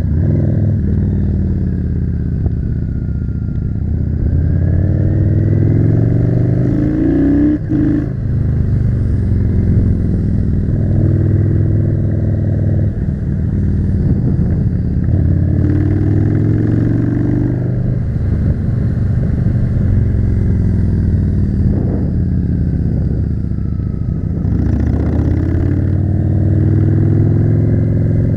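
Yamaha V-twin cruiser motorcycle engine under way. Its pitch climbs for a few seconds and then drops suddenly, several times over, as the rider accelerates and shifts gears.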